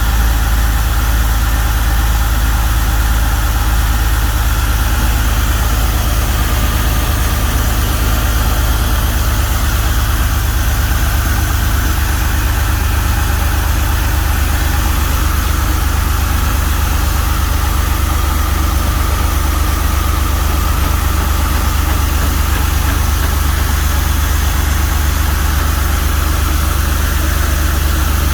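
Porsche 993's air-cooled flat-six engine idling steadily, with a deep, even low rumble.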